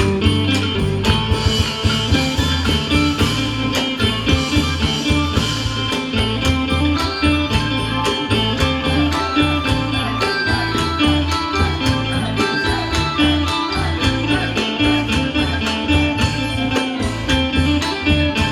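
Isan pong lang ensemble playing a lively instrumental folk piece, with many pitched melody lines over a steady, even drum and percussion beat.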